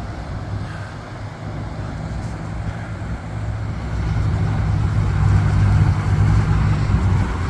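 High water rushing over a river dam spillway: a steady, deep rumble with a hiss above it, growing louder about halfway through.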